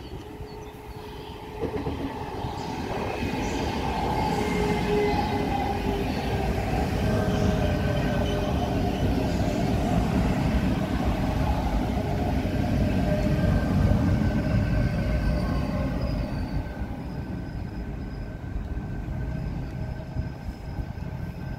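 Renfe Avant high-speed electric train running in along the platform and slowing: a rumble of wheels on rail that swells up about a second and a half in and peaks about two-thirds through, with steady high whining and squealing tones over it.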